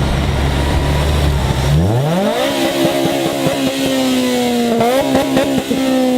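Honda Civic's engine idling, then revved up about two seconds in and held at high revs, with a short extra blip near the end.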